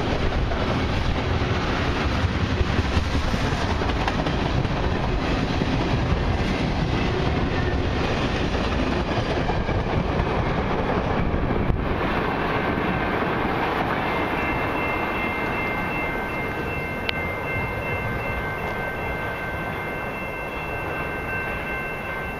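Freight train of loaded tank cars rolling past, the wheels clacking over the rail joints with a steady rumble. About twelve seconds in the rumble drops off and then fades as the train moves away, and a thin steady high tone rings on.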